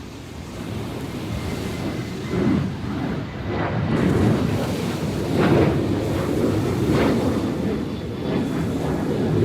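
Sea surf breaking on the shore, with waves surging in about every one to two seconds and building louder over the first few seconds: a rough post-typhoon swell.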